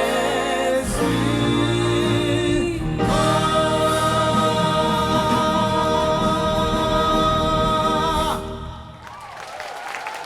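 A choir singing a slow piece in sustained chords, ending on a long held chord that dies away about two seconds before the end.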